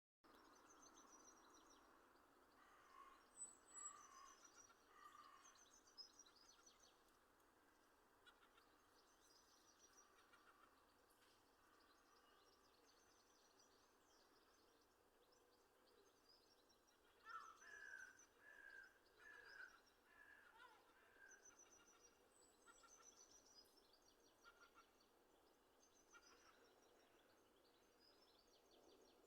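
Faint chorus of forest birds singing: high trilling and chirping phrases throughout, with two runs of lower, repeated whistled notes, one a few seconds in and one around the middle, over a soft steady hiss.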